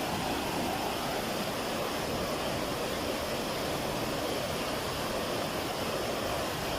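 Pance River water rushing: a steady, unbroken flow sound.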